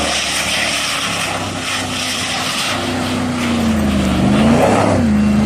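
A 4x4's engine running hard, climbing a muddy hill, over a steady hiss; its pitch dips and climbs back about four seconds in, then holds steady.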